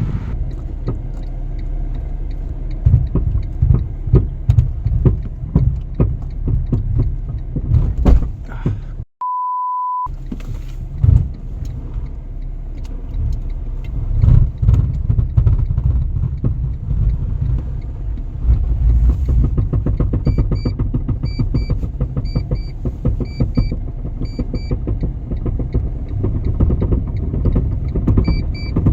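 A car's low rumble with frequent sharp knocks. About nine seconds in comes a single steady one-second beep, and from about twenty seconds on a short high electronic beep repeats at a steady pace.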